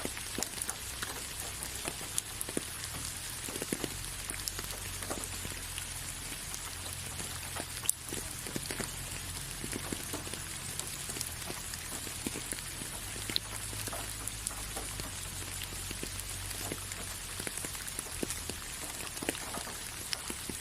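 Steady rain falling, with many separate drop hits heard through the steady hiss and one louder drop about eight seconds in.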